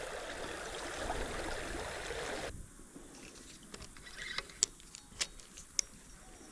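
Creek water running steadily, cut off abruptly about two and a half seconds in, leaving a much quieter background with a few sharp clicks.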